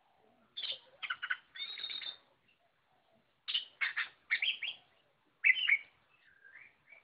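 Oriental magpie-robin (kacer) singing in three bursts of quick, sharp notes, with a few softer gliding whistles near the end.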